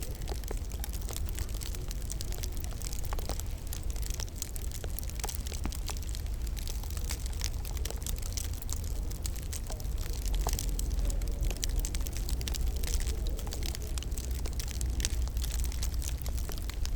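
Wood fire crackling steadily in a fireplace: many small sharp pops and snaps over a constant low rumble.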